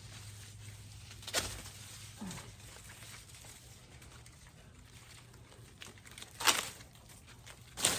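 Corn plants being handled and pulled, giving three short, sharp crackling rustles of leaves and husks: one about a second and a half in, one about six and a half seconds in, and the loudest near the end.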